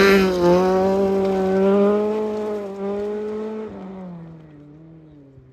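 Rally car's engine fading into the distance after passing, its note dipping and picking up again through gear changes.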